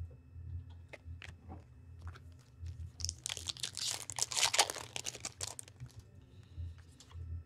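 A hockey card pack's wrapper being torn open and crinkled: a dense crackle of rustling wrapper lasting about two and a half seconds near the middle, with a few small clicks and handling sounds before it.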